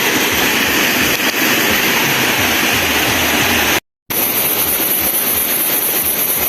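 Steady rushing of a nearby waterfall, breaking off for a moment about four seconds in.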